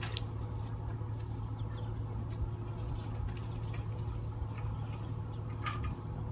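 An engine idling steadily at a low, even hum, with scattered light ticks and clicks over it.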